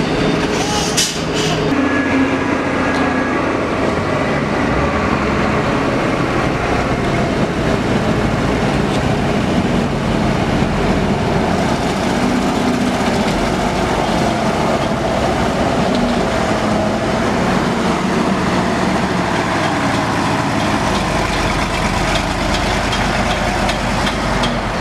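Heavy truck engine running steadily while working along a muddy road, with its pitch shifting slightly, and a brief hiss about a second in.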